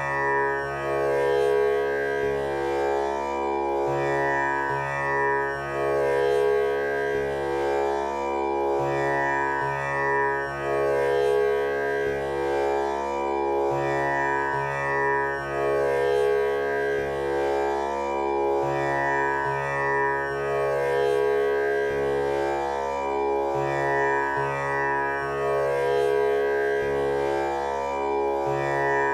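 Tanpura drone tuned to C# for a male voice, its strings plucked in a steady cycle that repeats about every five seconds. Each pluck leaves a rich, buzzing wash of overtones.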